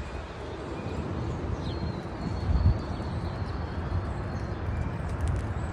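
Wind rumbling on the microphone, with a few faint, short bird chirps and a thin high whistle held for a couple of seconds.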